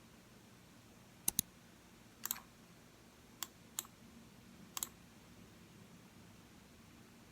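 Computer mouse buttons clicking: three quick double-clicks and two single clicks, spread over the first five seconds, over a faint steady room hum.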